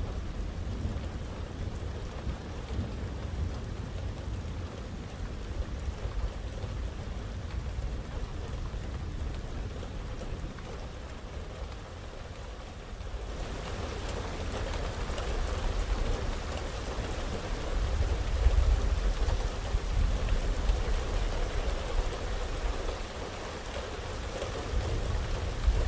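Heavy rain falling with rolling thunder rumbling low underneath. The rain hiss gets abruptly louder about halfway through, and the thunder swells in the last third and again near the end.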